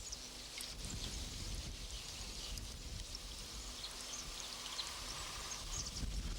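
Riverside ambience: a steady rush of running water with wind rumbling on the microphone and faint, high, short chirps scattered through it.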